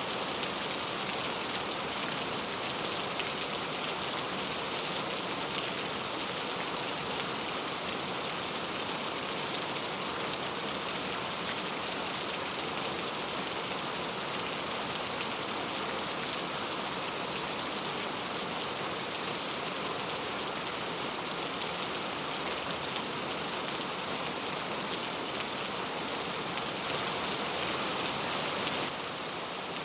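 Steady rain falling, an even hiss of many drops hitting a surface, with a slight drop in level near the end.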